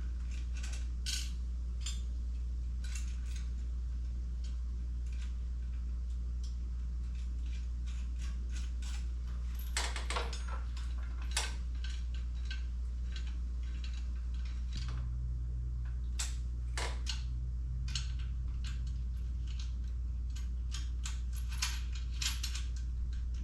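Scattered light metallic clicks and clinks of bolts, flat washers and a hand wrench being handled while fitting washers to the jack's bolts, over a steady low hum.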